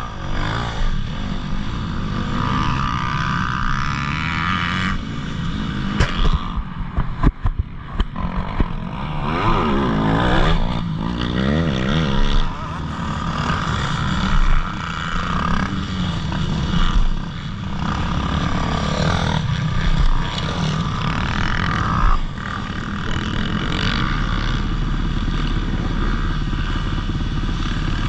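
Motocross dirt bike engines revving up and down, pitch rising and falling through the gears. A burst of sharp knocks and clatter comes about six to eight seconds in.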